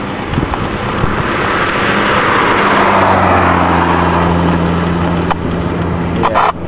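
Amateur radio receiver picking up a passing Jeep's motor noise as interference. A rushing noise swells and fades over a few seconds, with a low steady hum through the second half.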